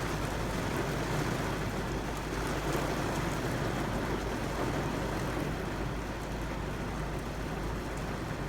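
Steady rain falling, an even hiss with a deep low rumble underneath, which thins a little near the end.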